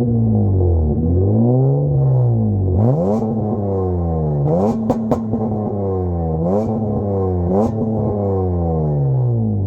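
Acura MDX's 3.5-litre V6 engine, heard through a new full 3-inch stainless exhaust with aftermarket mufflers and resonator, revving up and down again and again. A few sharp clicks come about halfway through.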